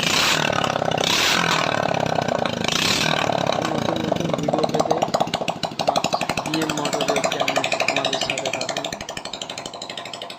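Hero Honda Super Splendor's 125 cc single-cylinder four-stroke engine idling, freshly rebuilt with new piston rings and a reset timing chain, with a quick, even firing beat. It fades out toward the end.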